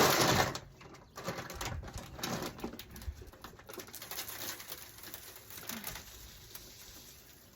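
Wild bird seed being poured into a bird feeder: a loud rush of seed right at the start, then a lighter scattered patter of falling seed. A dove coos in the background.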